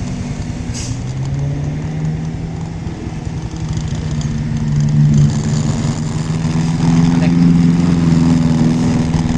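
Truck engine running steadily. Its pitch rises a little in the first couple of seconds, and it grows louder toward the end.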